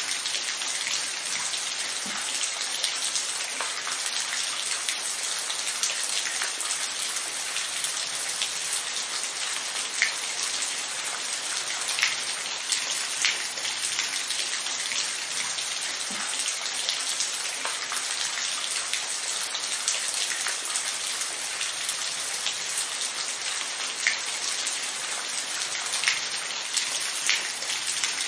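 Steady rain falling on a surface, an even hiss with individual drops ticking now and then.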